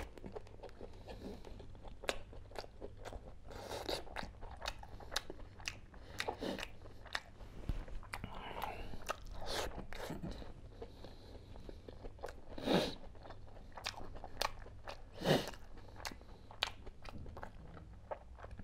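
A man chewing and eating curried boiled eggs by hand: a steady run of short mouth clicks and smacks, with two louder ones about 13 and 15 seconds in.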